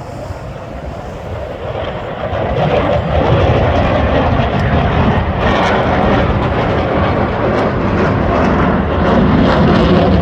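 Aircraft engine roar from a plane flying by, growing louder over the first three seconds and then staying loud and steady.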